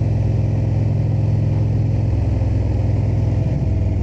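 Indian V-twin motorcycle engine running steadily under way, with wind noise; its pitch shifts briefly about three and a half seconds in.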